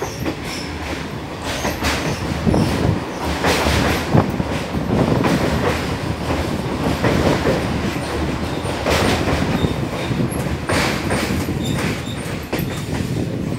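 Passenger train coaches rolling along the track, heard from an open carriage window: a steady rumble of wheels on rail with irregular clacks and knocks as the wheels run over rail joints.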